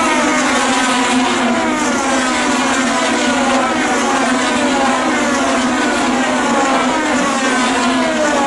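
IndyCar twin-turbo V6 engines at full throttle as a pack of cars races past, each engine's pitch falling as it goes by, one pass after another.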